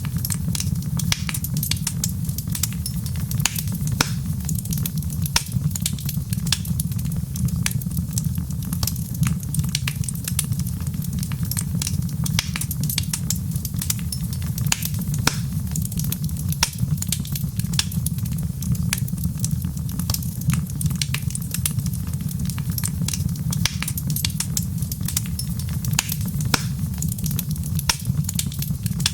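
Wood fire crackling: frequent small irregular pops and snaps over a steady low rumble.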